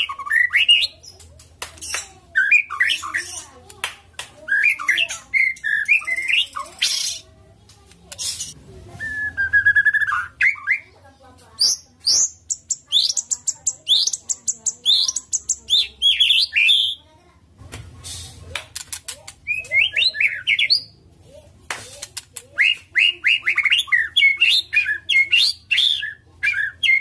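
White-rumped shama singing a loud, varied song: whistled phrases, rapid high trills and sharp clicking notes, in runs broken by short pauses.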